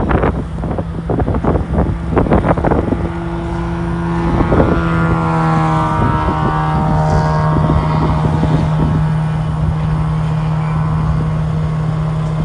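Wind buffeting the microphone in gusts, with a steady low engine hum and a vehicle passing by, its pitch sweeping as it goes.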